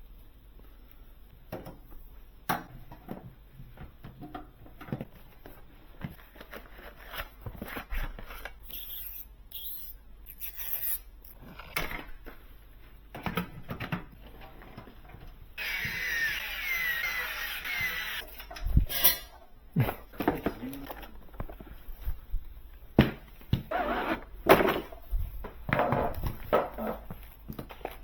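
Handling noises of PC assembly: scattered clicks, taps and knocks of parts and tools being fitted, with about three seconds of scraping or rustling past the halfway point.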